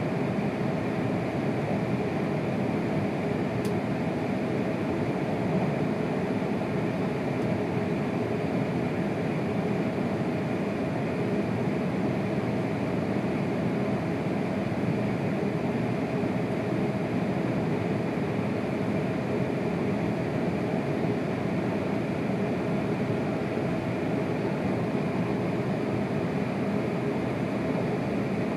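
Steady running noise of a Tohoku Shinkansen train at speed, heard inside the passenger cabin: an even rumble with a faint constant hum above it.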